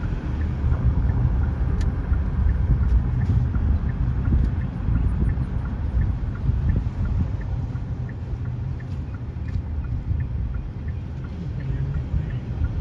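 Car driving: a steady low rumble of engine and tyres on the road, heard from inside the car.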